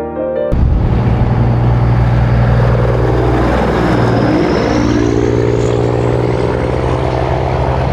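Heavy truck's diesel engine running loud and steady, with a faint high whine slowly rising in pitch over the second half.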